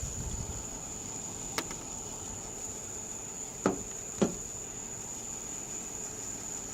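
Three short, sharp knocks: one about a second and a half in, then two close together about half a second apart near the middle. Under them runs a steady high-pitched whine with a hiss.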